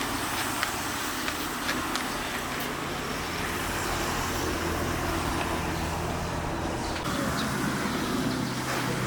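Truck engine running steadily, with a haze of road noise. Its note shifts about seven seconds in.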